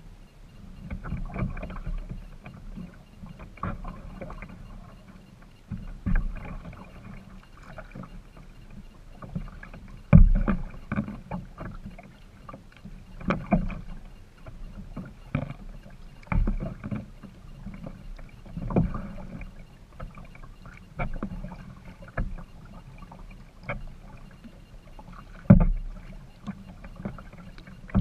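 Kayak being paddled: water splashing with each paddle stroke, about one stroke every two to three seconds, with sharp low thumps among them.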